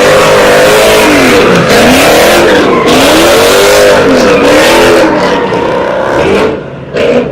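A car engine revved hard again and again, its pitch swinging up and down about once a second over a loud hiss. It falls away about six and a half seconds in, then gives one short blast near the end.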